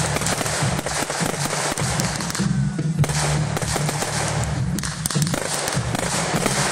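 Aerial firework shells bursting, a dense run of sharp pops and crackles, with music and its low bass line playing underneath.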